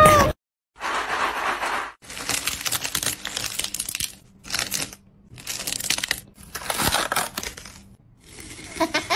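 Bursts of crunching, crackling handling noise in several short segments broken by abrupt cuts, typical of food being prepared. A faint steady hum runs under the middle segments.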